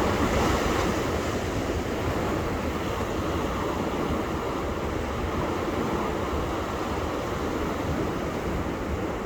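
Ocean surf washing on a beach: a steady rushing wash of breaking waves, a little louder in the first second.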